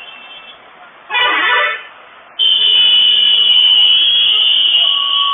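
A vehicle horn honks briefly about a second in. About two and a half seconds in, a loud, steady, high-pitched tone starts and holds.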